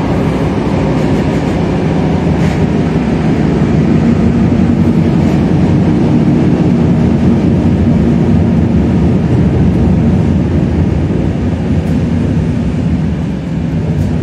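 Regional passenger train running along the rails, heard from inside the carriage: a steady low rumble of wheels and running gear with a faint hum in it.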